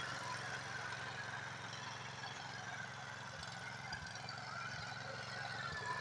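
Mini tractor's engine running steadily with a low, even hum.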